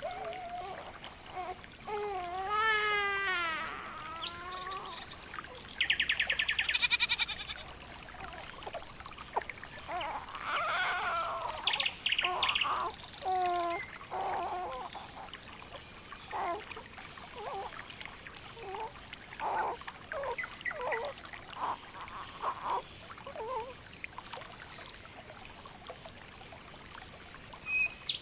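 Barnyard animal ambience: a wavering bleat about two seconds in, a loud buzzy call a few seconds later, then many short bird chirps and calls over a steady high-pitched tone.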